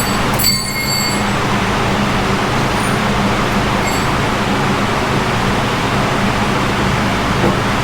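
Steady, loud rushing noise with a low hum beneath it. A brief high ring comes about half a second in and a fainter one near four seconds.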